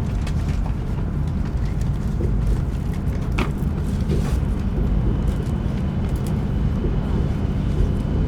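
Steady low rumble of an E5 series Shinkansen train, with a few faint clicks and a faint high tone that comes in about halfway through.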